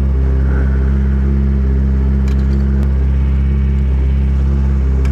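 Yamaha R6 sport bike's inline-four engine idling steadily, with a couple of faint clicks about two and three seconds in.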